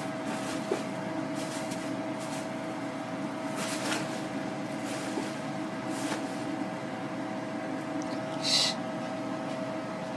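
A steady mechanical hum with a constant mid-pitched tone, broken by a few brief, high, hissy sounds. The loudest of these comes about eight and a half seconds in.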